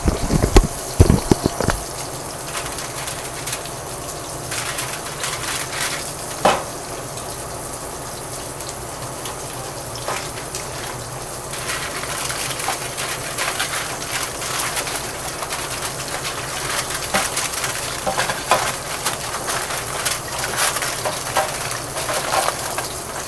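Pork loin searing in a hot pan: a steady sizzle with frequent small crackles and spits of fat as the meat browns. There are a few low knocks in the first couple of seconds.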